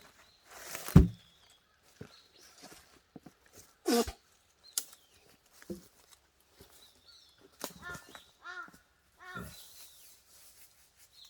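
Crows cawing, a run of three short harsh caws in the back half. Earlier come two heavy thuds, about one and four seconds in, the first the loudest sound here.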